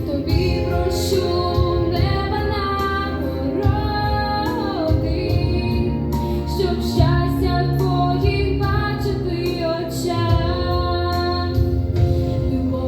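Solo female voice singing a slow song with wavering held notes over an instrumental backing track.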